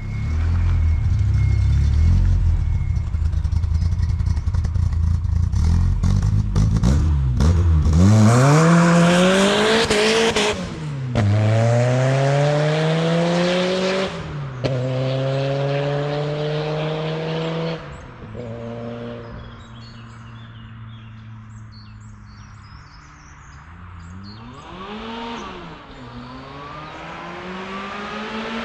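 Supercharged 2.0-litre 8-valve engine of a VW Golf Mk2 GTI (G60 supercharger), exhaust valve closed so it runs through two mufflers. A heavy low rumble for the first several seconds, then the car accelerates hard away, its pitch climbing through three gears with a sharp drop at each shift, and it fades. Later a brief rise and fall, and near the end the engine rises again.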